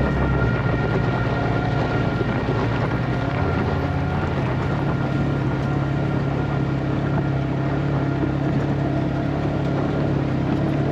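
Polaris Ranger XP side-by-side's engine running steadily under way, a constant drone with no change in pitch.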